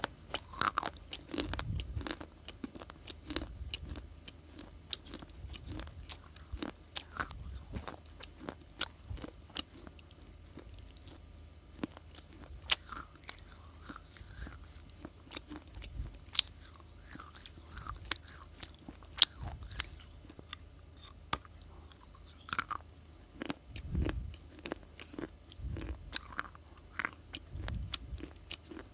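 A person biting and chewing brittle baked clay (claypot cruncher) close to the microphone, with many irregular sharp crunches and cracks and dull chewing thuds between them.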